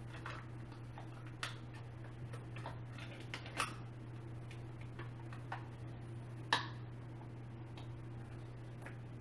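Irregular light clicks and taps of plastic chair parts being handled and fitted, with two sharper snaps about a third and two-thirds of the way through, over a steady low hum.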